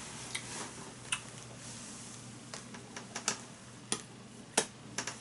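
Faint, irregular clicks and taps, about nine of them spread unevenly, over a low steady room hum.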